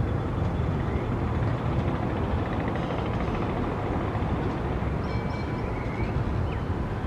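Steady low rumble of city background noise, with a few faint high bird chirps about three seconds in and again about five seconds in.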